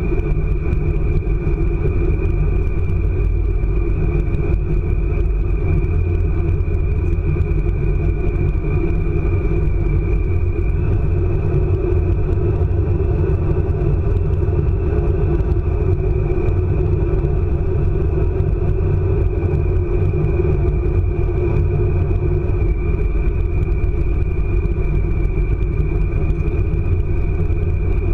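ICE high-speed train running at speed: a steady, loud rumble with a thin, steady high whine above it.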